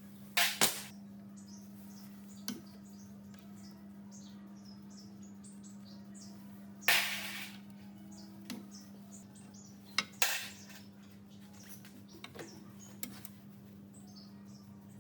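Scattered sharp clinks and knocks of metal tools and parts being handled, about nine in all. One, about seven seconds in, runs on for over half a second as a scraping hiss. Under them is a steady low hum with faint high chirps.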